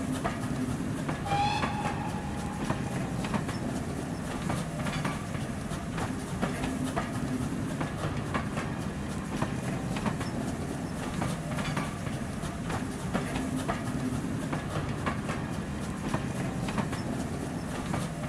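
A train running past: a steady rumble with the wheels clicking over rail joints, and a brief squeal about a second and a half in.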